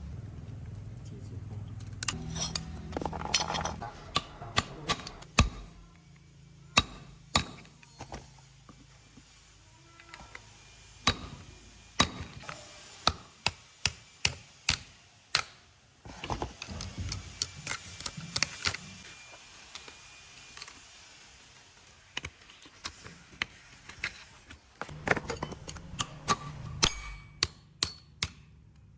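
Hand tools knocking and clinking on metal truck-gearbox parts, with sharp hammer-like taps at irregular intervals. The taps come in runs through the middle and again near the end, over a low steady hum.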